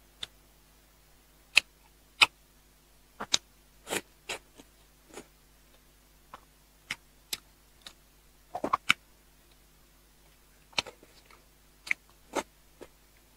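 Close-miked chewing and biting of soft, fatty red-braised pork belly: irregular sharp mouth clicks and smacks, a few much louder than the rest.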